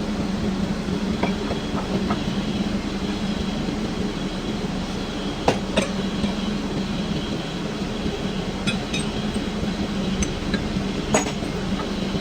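Metal-turning lathe running with a steady mechanical hum, with a few sharp metallic clinks over it, the loudest about five and a half seconds in and about eleven seconds in.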